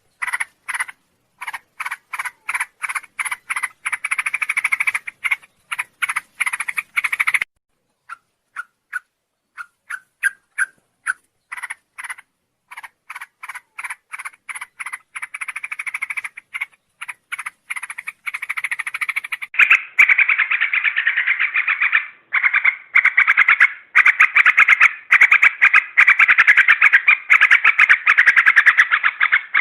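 Yellow-vented bulbuls (trucuk) calling in a long, fast chattering series of repeated notes. The texture changes abruptly about seven seconds in and again about twenty seconds in, where it becomes a denser, continuous chatter.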